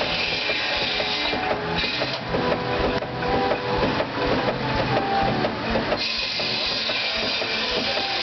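Frick steam traction engine running and driving a sawmill by belt: a steady, rapid mechanical clatter.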